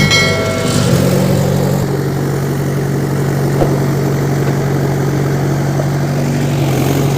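Tractor engine idling with a steady low hum. A brief higher-pitched tone sounds at the very start.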